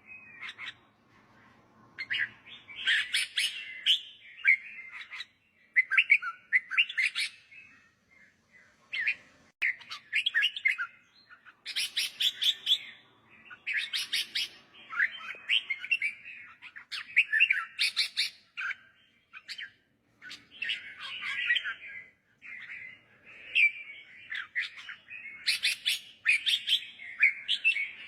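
Red-whiskered bulbul singing: short, bright warbled phrases, one after another with brief pauses between them.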